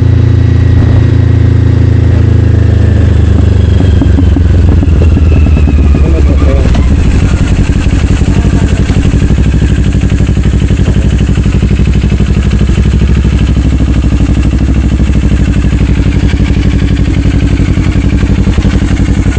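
Kawasaki Ninja 500 parallel-twin through an Akrapovic slip-on exhaust, the pitch falling as it slows over the first several seconds, then running steady at low revs.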